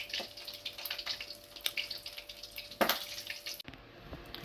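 Hot oil frying food in a pan, a dense irregular crackle and spatter, with one louder click near the three-second mark. The crackling cuts off abruptly about three and a half seconds in, leaving only a faint room background.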